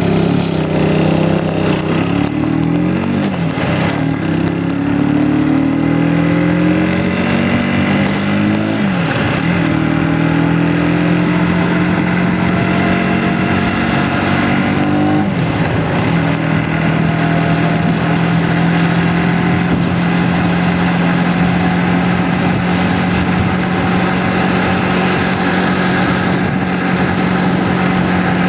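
Aprilia Tuono 125's single-cylinder four-stroke engine pulling through the gears. Its pitch climbs and falls sharply three times as it shifts up, then it runs at one steady pitch from a little past halfway on.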